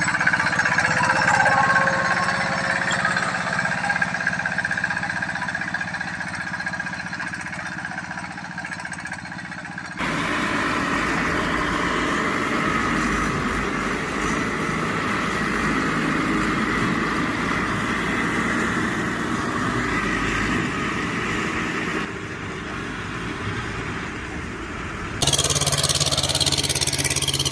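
Small engines of walking tractors (two-wheel power tillers) running steadily, heard across several clips, with the sound changing abruptly about 10, 22 and 25 seconds in.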